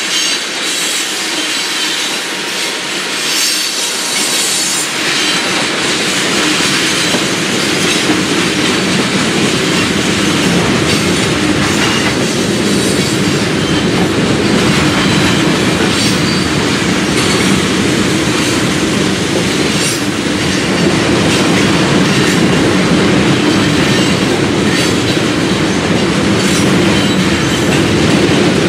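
Freight train of loaded tank cars rolling steadily past: a continuous rumble of steel wheels on rail, with repeated clicking as the wheels cross rail joints and a faint wheel squeal.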